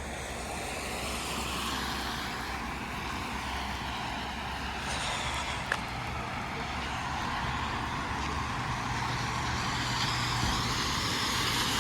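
Road traffic passing on a wet street: a steady hiss of tyres over a low engine rumble, slowly growing louder, with a single short click about six seconds in.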